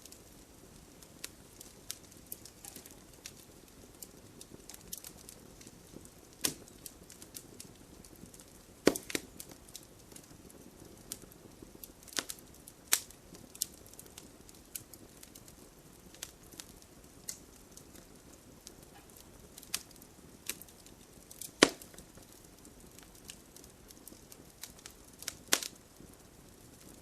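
Wood fire burning in a fireplace: a soft steady hiss with irregular sharp crackles and pops, a few loud snaps among them.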